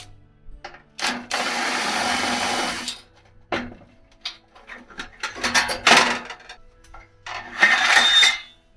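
A small power tool running in bursts: one steady run of about two seconds, then two shorter runs, with light clicks and handling knocks between.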